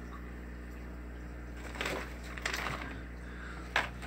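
Steady low hum, with a few soft rustling scuffs about two seconds in and a short sharp click near the end.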